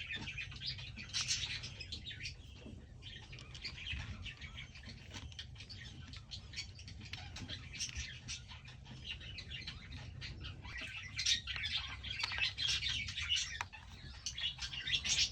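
Small birds chirping: many quick high chirps and tweets, busier and louder in the last few seconds.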